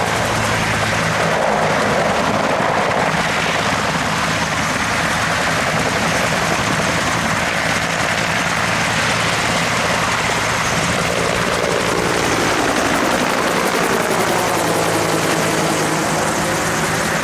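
A Bell military helicopter (AH-1S Cobra or UH-1J Huey) flying a display manoeuvre. Its two-blade main rotor and turbine run loud and steady, and in the second half the tone sweeps up and down as the helicopter moves across.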